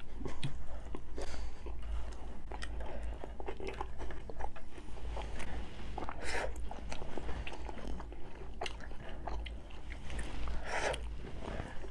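Close-miked chewing and biting into crunchy taco shells: many small crisp crunches, with two louder bites about six and eleven seconds in.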